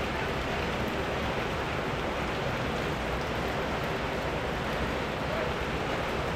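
Rain falling steadily: a dense, even hiss that holds at one level throughout.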